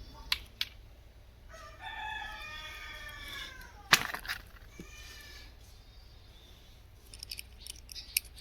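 A rooster crowing once, about a second and a half in, for about two seconds, its pitch falling at the end. A sharp click follows, and small metal parts clink near the end.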